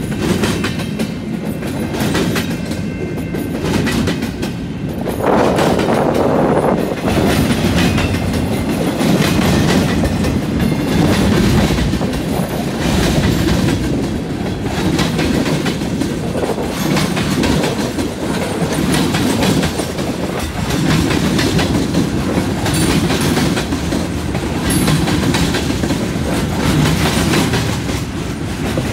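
Freight train of empty intermodal well cars, tank cars and covered hoppers rolling past at reduced speed. Steel wheels rumble steadily on the rail with a continuous clickety-clack of wheel clicks.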